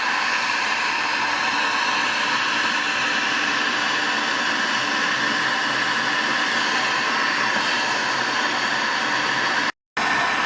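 Heat gun blowing steadily while it heats an aluminium scooter crankcase half so the crankshaft bearings can be fitted, with one brief break near the end.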